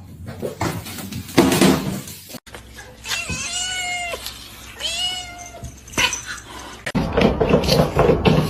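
A cat meowing twice, each meow about a second long and rising then falling in pitch. A short, loud, noisy sound comes first.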